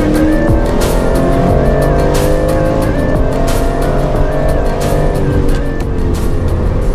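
Background music with a steady beat and a synth melody, mixed with the 2018 Aston Martin Vantage's 4.0-litre twin-turbo V8 under acceleration, its pitch climbing over several seconds.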